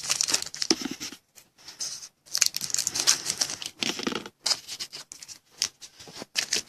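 Irregular crinkling and tearing of a trading-card pack wrapper as it is ripped open, with cards shuffled by hand, in uneven bursts broken by short pauses.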